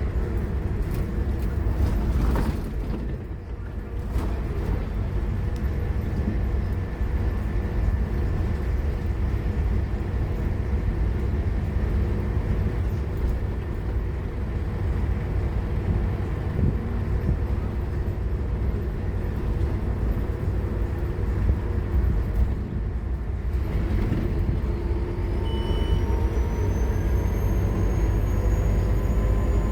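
Scania K230UB Omnilink bus's engine running hard with a steady low rumble. From about 24 seconds in, a high whine rises in pitch as the bus picks up speed.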